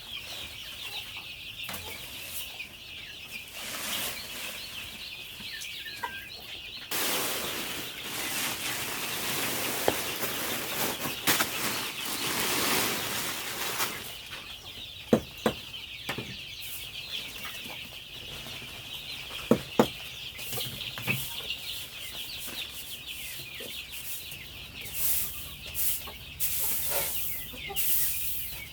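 Chickens clucking and flapping their wings, over a steady high-pitched hiss. There is a louder rustling stretch about a third of the way in, and a few sharp knocks past the middle.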